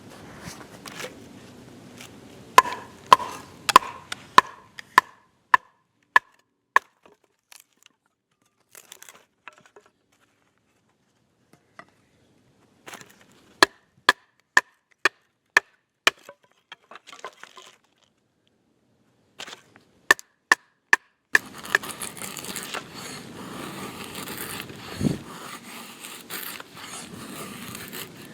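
Wood being chopped for a fire: runs of sharp knocks, about two a second, some with a short ringing, separated by pauses. About three quarters of the way through, a steady hiss comes in and continues.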